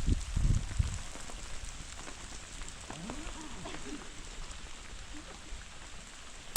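Steady rain falling on a surface, an even hiss with no break in it.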